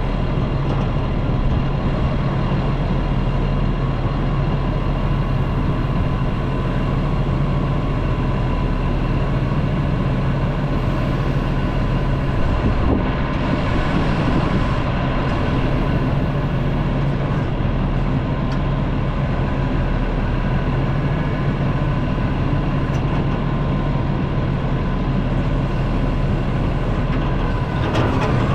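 Diesel engine of heavy equipment running steadily under load, with a steady whine over the low engine hum.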